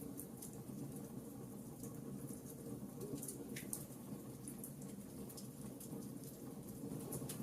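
Wood fire crackling: a steady low rumble of the flames with frequent small, sharp pops and snaps, a few louder ones scattered through.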